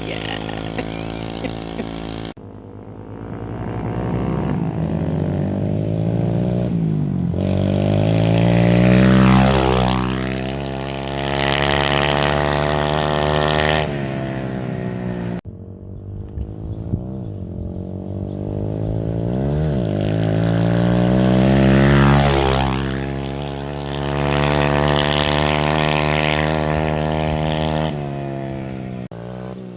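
Dirt bike engine accelerating and revving, its pitch climbing and dropping again and again as it shifts and rides. It gets loudest twice, and the sound cuts abruptly twice where clips are joined.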